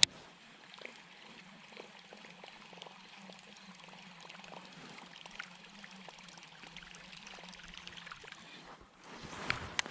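Water lapping and trickling softly against a kayak hull, with scattered small splashes and a faint steady low hum underneath. A sharp click comes right at the start.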